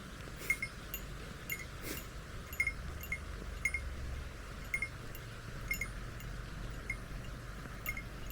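Small bear bell on a walking hiker jingling in time with the steps, a light metallic clink about twice a second.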